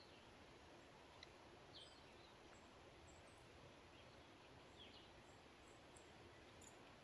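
Near silence: a faint steady outdoor hiss with a few scattered, short, high bird chirps.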